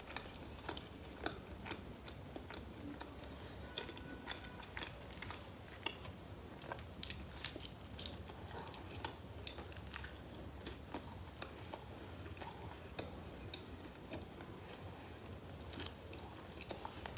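A person chewing and biting pizza with cheese, pork loin and pineapple close to the microphone: soft, irregular wet mouth clicks and smacks, with a bite taken about eight seconds in.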